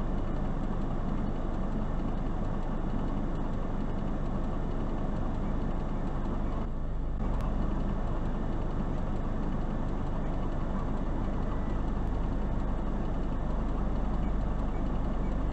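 Steady car engine and road hum heard from inside a vehicle through a dashcam microphone, with a low drone that holds even throughout.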